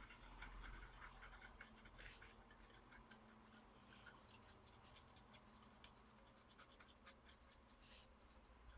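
Near silence, with faint scattered small clicks and light scratching from soldering work on the laptop board.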